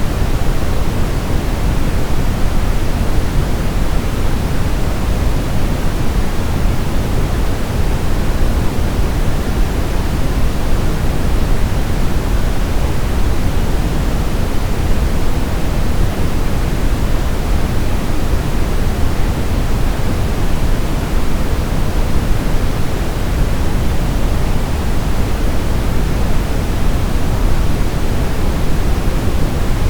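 Steady brown noise: a continuous, even hiss weighted heavily toward the deep low end, without change or break.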